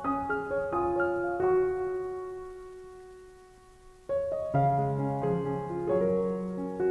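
Gentle solo piano background music: a few single notes, one left to fade out for a couple of seconds, then fuller chords with a bass line coming in about four and a half seconds in.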